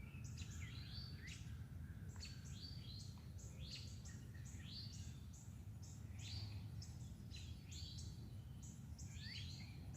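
Small birds singing and chirping, many short falling and rising notes one after another, over a faint low background rumble.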